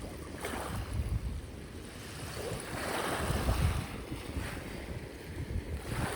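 Sea waves washing on a shore, one wash swelling and falling away about halfway through, with wind rumbling on the microphone.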